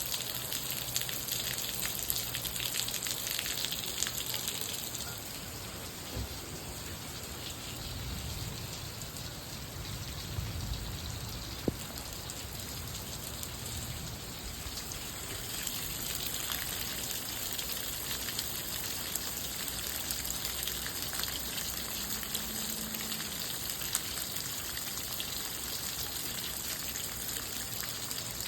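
Steady rain falling, a continuous hiss of drops on surfaces with scattered single drops ticking through it and one sharper tap near the middle.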